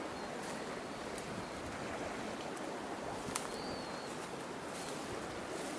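Steady rush of a fast-flowing river. A single sharp click comes about three and a half seconds in, followed by a short, faint bird chirp.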